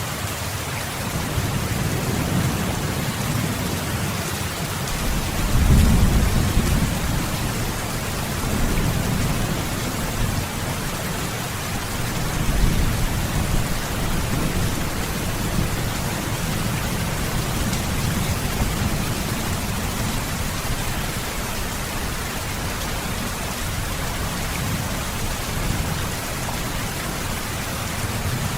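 Steady heavy rain hissing, with low rolling rumbles of thunder swelling and fading underneath, the strongest about six seconds in and another near twelve seconds.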